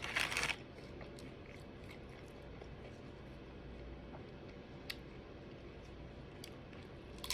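A person chewing fried crab rangoons close to the microphone: a loud crunch in the first half-second, then quiet chewing with a few faint clicks.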